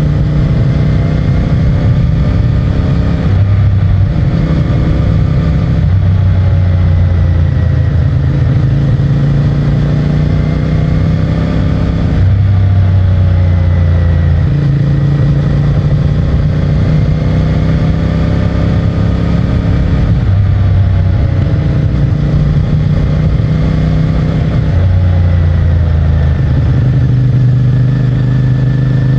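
CFMOTO 450MT motorcycle's 449 cc parallel-twin engine through its stock exhaust, heard from the rider's position while riding. The engine note rises and falls with the throttle and changes abruptly several times as gears are shifted, over wind and road noise.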